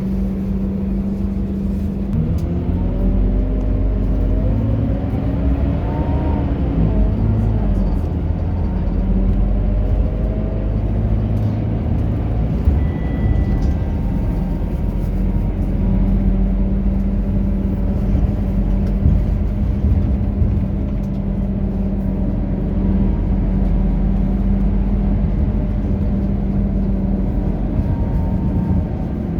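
Scania K230UB bus's five-cylinder diesel engine pulling away, its pitch climbing and stepping through gear changes a few seconds in, then running steadily.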